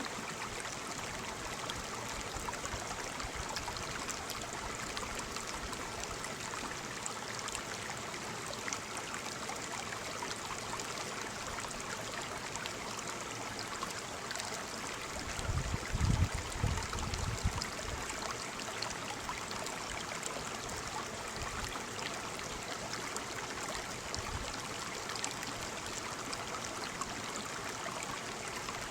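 Waterfall: a steady rush of falling water. About halfway through, a low rumble rises over it for two seconds or so, then fades.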